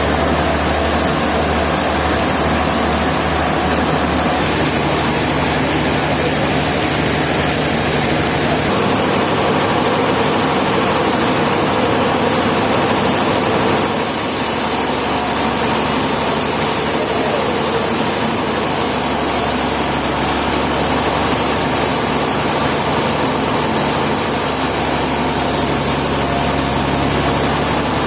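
A sawmill's engine-driven machinery running steadily, its sound shifting abruptly twice, about nine and fourteen seconds in.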